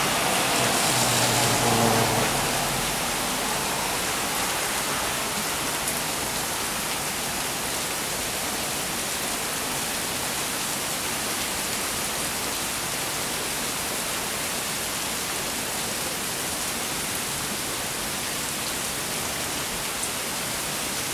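Steady rain falling during a thunderstorm, a little louder for the first two seconds or so.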